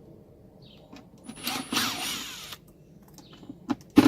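Power drill running in one short burst of about a second, starting about a second and a half in, its pitch sweeping as it spins, followed by a few short knocks near the end.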